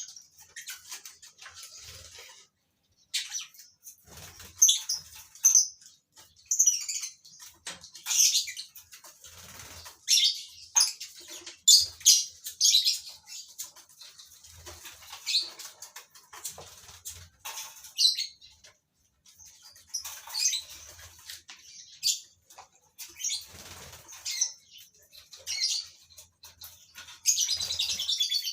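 A colony of lovebirds chirping shrilly and irregularly, with wings flapping and soft thumps in between.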